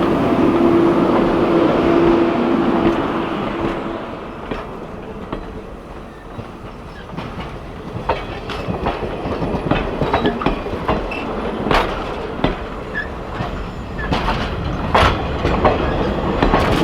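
Steam-hauled excursion train rolling along the track, with a steady running noise and a held tone for the first few seconds. Then irregular clacks and knocks of wheels over the rails, growing busier toward the end.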